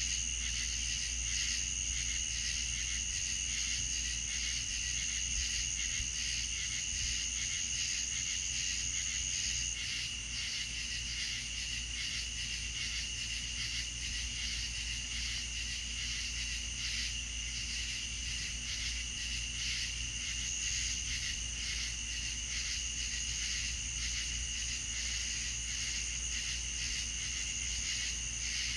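A night chorus of crickets and other insects, with steady high pulsing trills at two pitches over a constant low rumble. The highest trill fades out about ten seconds in and comes back near the end.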